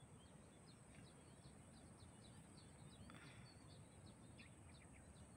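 Faint outdoor ambience by a pond: a small bird chirps continually in short, high notes, several a second, over a steady high whine and soft low background noise.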